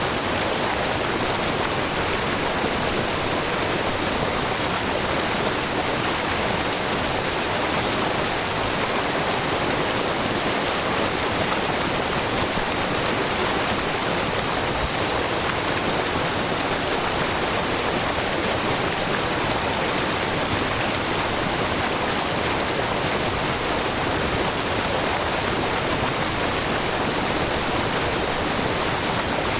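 Low, wide waterfall with many thin streams of spring water spilling over a rock face and splashing into the pool below: a steady, even rush of water with no change.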